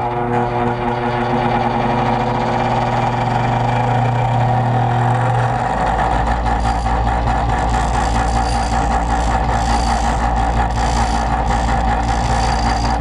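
Electric grinder running steadily while it grinds down the rakers on a chainsaw chain, lowering them so the chain takes a bigger bite. About five seconds in, the low hum of the motor changes abruptly and then holds steady.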